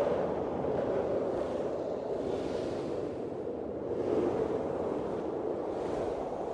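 Blizzard wind blowing: a steady rushing that swells into stronger gusts a few times.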